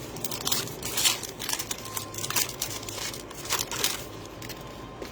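Trading cards being handled and flipped through: an irregular run of short swishes and clicks as the cards slide past one another, thinning out near the end.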